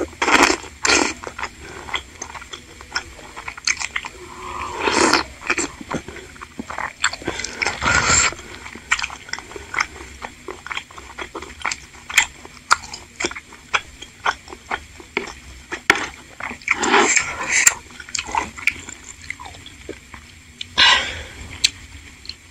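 Close-miked chewing of chewy bakso aci tapioca balls in spicy broth: many quick, wet mouth clicks and smacks, broken by a few louder, longer slurps.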